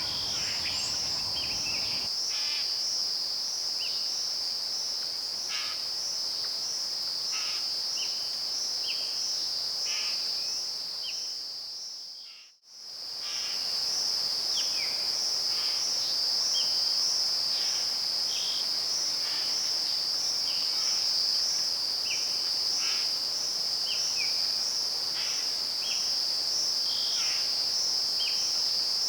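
Rainforest insect chorus: a continuous high-pitched, rapidly pulsing trill, with short chirping calls scattered over it. About halfway through it fades out to silence and then fades back in.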